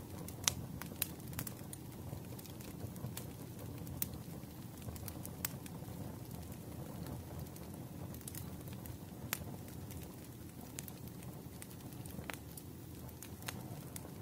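Fireplace wood fire crackling: a steady low rumble of flames with irregular sharp pops and snaps.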